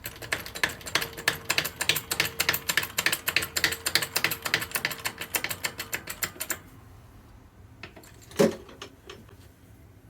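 Rapid run of light metallic clicks, about eight a second, for some six and a half seconds, then a single knock; workshop press work seating bronze bushes into a lathe gear bore.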